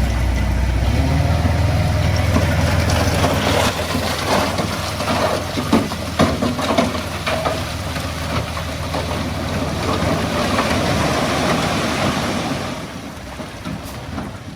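Diesel engine of heavy earthmoving equipment running steadily, with irregular clattering knocks, like stone tumbling and scraping, from about three to eight seconds in. Everything grows quieter near the end.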